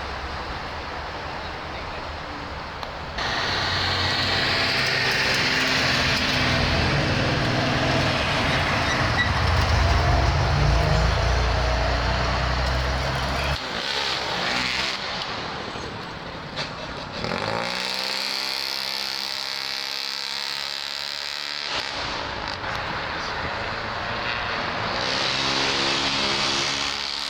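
Car engines and exhausts running and driving past, one after another, with loud low engine sound early on and an engine revving up in rising pitch about two-thirds of the way through, then holding a steady note.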